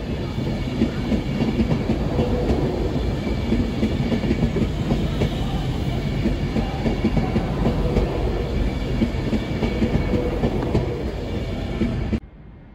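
Avanti West Coast passenger train passing close alongside the platform at speed: a steady rumble of wheels on rail with clickety-clack over the joints. The sound cuts off suddenly near the end.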